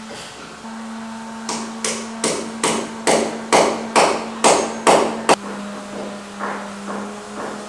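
Hammer blows on a construction site: about ten strikes in a steady rhythm of a little over two a second, growing louder, then a few lighter blows near the end. A steady hum runs underneath.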